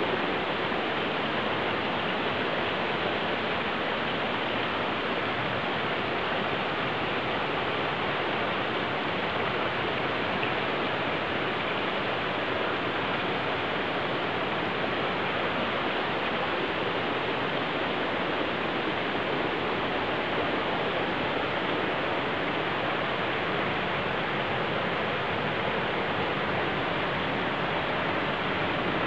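Hot spring water pouring out of its source in a steady, unbroken rush.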